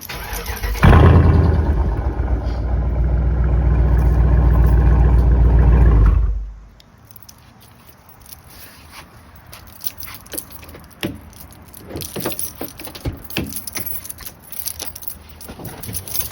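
Car engine cold start: it catches about a second in with a loud flare, runs steadily for about five seconds, then is switched off and dies away. Afterwards there are light scattered clicks and rattles.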